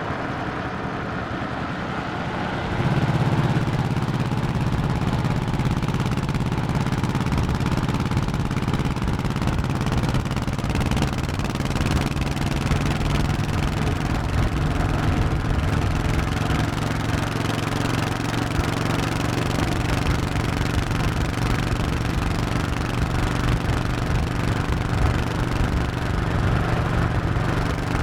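Honda 1100cc V-twin motorcycle engine running on the road. It gets louder just under three seconds in, then holds a steady cruising drone.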